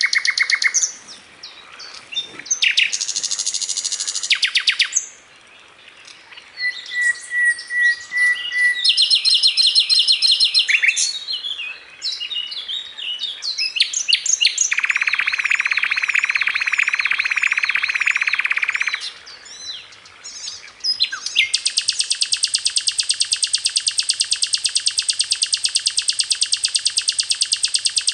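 A sikatan londo singing a fast, varied song of rapid trills, short whistles and rattling buzzy phrases. About two-thirds of the way in it breaks into one long, unbroken rapid trill.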